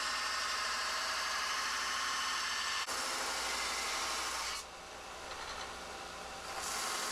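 Belt sander running with a steel knife blade ground against the belt: a steady grinding hiss over the motor's hum. About two-thirds of the way through, the grinding hiss drops away for about two seconds, leaving the sander running, then comes back.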